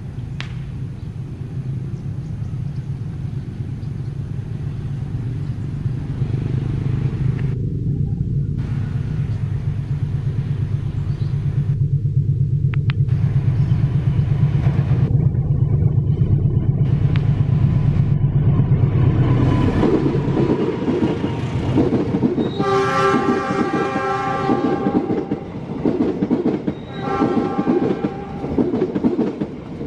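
Diesel-electric locomotive hauling a passenger train: a steady low engine drone that grows louder as it approaches, then gives way to the coaches clattering over the rail joints as they pass. A train horn sounds in the second half, one longer blast and then a short one.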